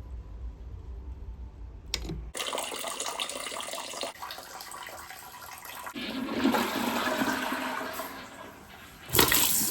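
Toilet flushing: a low hum stops about two seconds in, then a rush of water begins, swells and eases off. A short loud clatter comes near the end.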